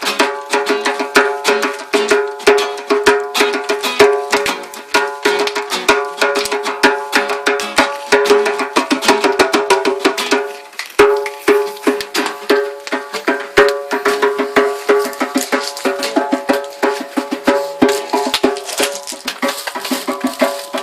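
Acoustic guitar strummed briskly, with djembe hand drumming, in a fast, busy rhythm that dips briefly about halfway through.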